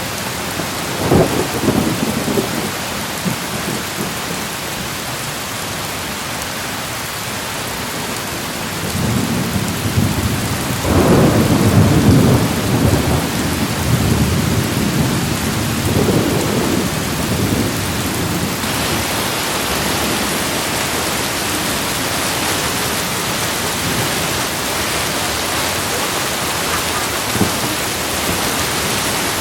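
Steady rain with rolling thunder. Low rumbles swell near the start, again about a third of the way in (the loudest), and once more a little after the middle; the rain's hiss turns brighter about two-thirds of the way through.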